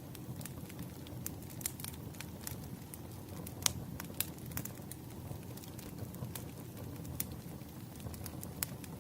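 Burning firewood crackling: irregular sharp pops and snaps over a low steady rumble of the flames, with two louder pops a little past the middle.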